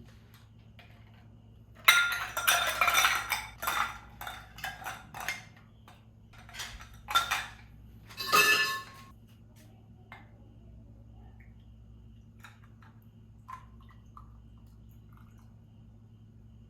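Hard household objects clattering and clinking, most busily about two seconds in and again around seven and eight seconds in, then a few faint ticks, over a low steady hum.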